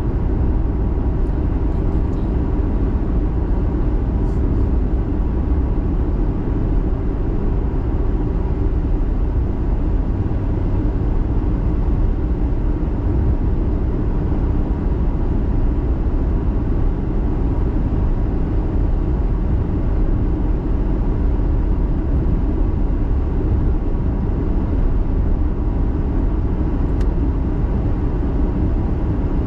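A car being driven, giving a steady low rumble of engine and tyre noise.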